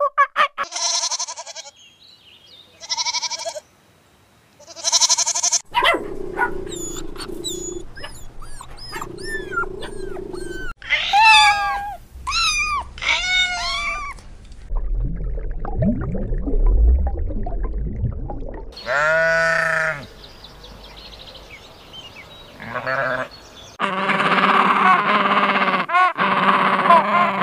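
A run of different farm animal calls cut one after another: short pitched calls, a low rumbling stretch in the middle, a strong falling call, then several animals calling together near the end.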